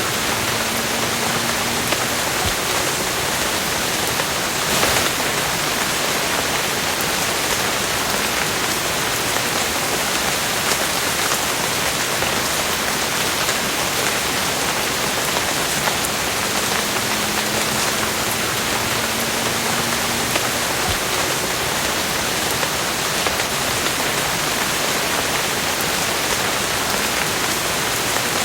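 Steady rain falling, a dense even hiss with scattered individual drops tapping and a brief louder patter about five seconds in.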